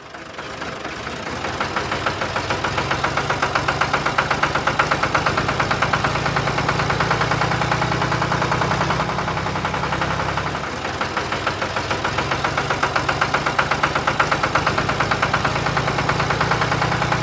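Tractor engine idling with a steady, evenly pulsing chug. It fades in at the start and dips briefly about ten seconds in.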